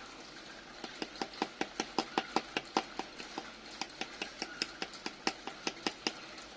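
A quick run of sharp little clicks, about five a second, starting about a second in and stopping shortly before the end.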